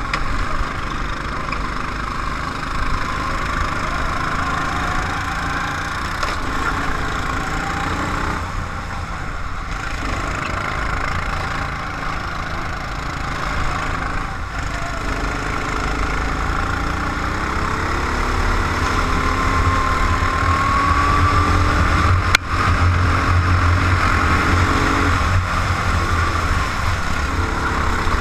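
Racing car's engine running continuously, heard from an onboard camera. The pitch climbs over a few seconds about two-thirds of the way through, and a single sharp knock comes just after.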